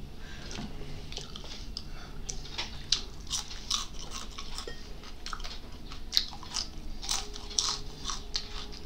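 Close-up eating sounds: chewing fried fish, with frequent irregular short crisp crackles and mouth clicks.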